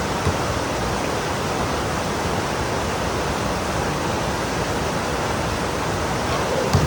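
Heavy rain pouring down in a steady, dense hiss, with a couple of short low knocks, one just after the start and one near the end.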